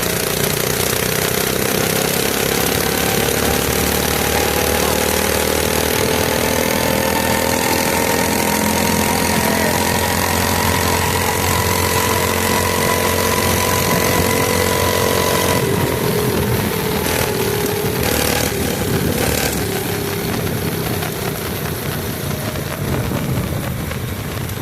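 Mini bike's small engine running under steady throttle, its pitch slowly rising. About two-thirds of the way through the throttle comes off and the engine winds down and gets quieter.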